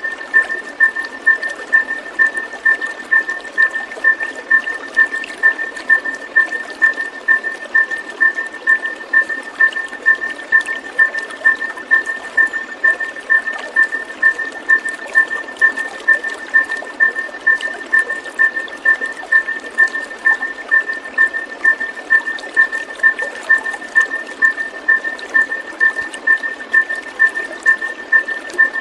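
Steady rush of flowing water, with a high, even pip repeating about twice a second throughout.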